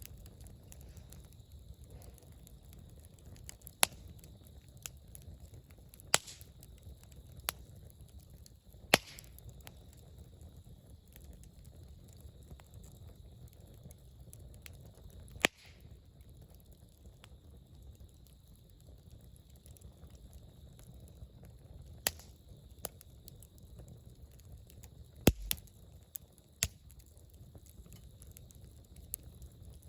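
Wood campfire crackling, with about ten sharp, loud pops at irregular intervals over a low, steady rumble.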